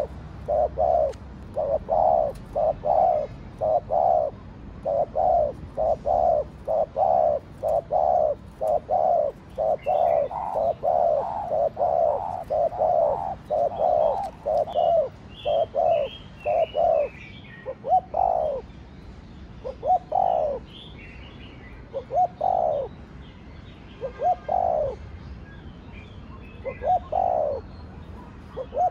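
Spotted dove cooing: a fast run of short coo notes, about two a second, that slows about two-thirds of the way through to single, longer coos every couple of seconds. Faint higher chirps sound above it partway through.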